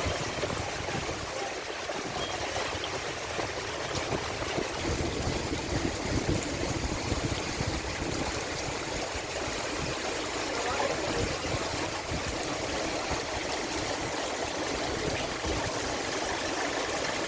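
Steady rushing noise with uneven low rumbling underneath.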